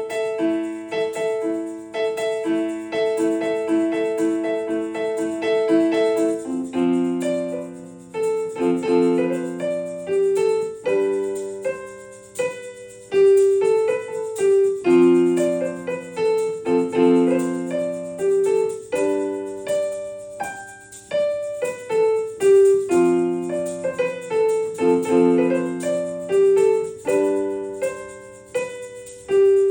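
Piano playing an instrumental passage of struck, repeated chords in a steady rhythm, changing chord about every two seconds.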